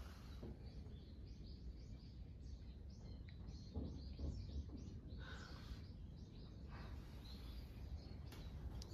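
Small birds chirping faintly and repeatedly, over a steady low background rumble.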